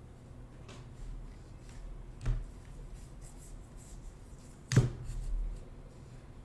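Trading cards being handled and shuffled through on a table, light rustling over a low room hum, with a small knock a couple of seconds in and a sharper, louder knock about three-quarters of the way through as cards or a pack are set down.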